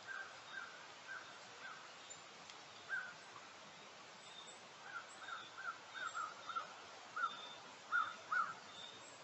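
A bird calling in runs of short, repeated notes, about three a second. The calls are faint near the start and louder in a run from about five seconds in, over a steady outdoor hiss.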